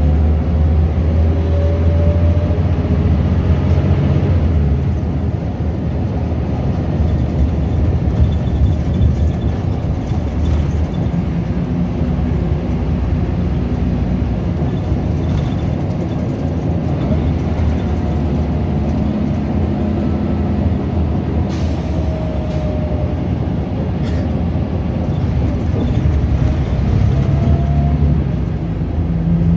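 Scania DC9 9.0-litre diesel engine of a Scania L94UB bus running under way, driven through a ZF Ecomat 5-speed automatic gearbox with the gears held. Its note rises and falls a few times as the revs change.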